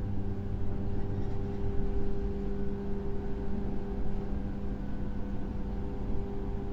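Running sound inside a 103 series electric train's motor car with MT55 traction motors: a steady low rumble from the wheels and track under a constant motor and gear hum that holds one pitch, the train moving at a steady speed.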